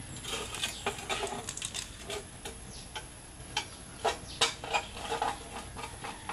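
Scattered light clicks and knocks from hands and tools handling the parts of an opened window-type air conditioner, with the unit unplugged and silent.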